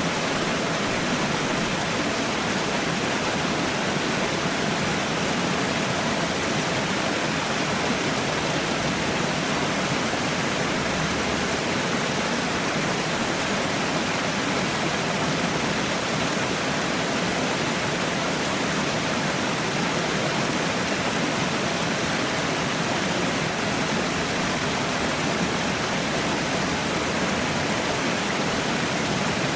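Falling water pouring steadily, a constant even rush with no breaks or changes.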